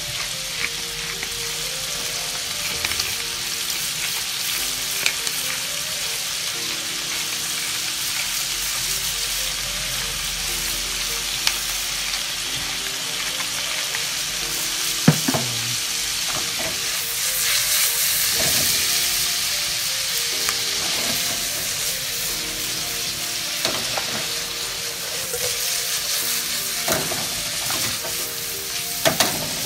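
Tuna chunks shallow-frying in butter and oil in a frying pan, a steady sizzle that swells a little about two-thirds of the way through, with a few light clicks.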